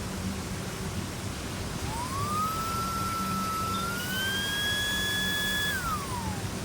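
Cordless car vacuum running, a steady rushing hiss with a low hum. About two seconds in, a whistling tone rises, holds, climbs a little higher, then glides back down near the end.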